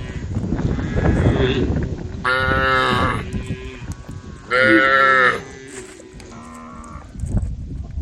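Cows mooing: two long, loud moos in the middle, the second the loudest, then a fainter one, after a low rumbling noise in the first couple of seconds.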